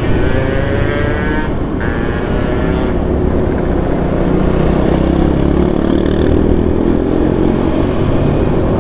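Motorcycle engine running on the move through traffic, over a steady low rumble; its pitch climbs slowly in the second half as it speeds up.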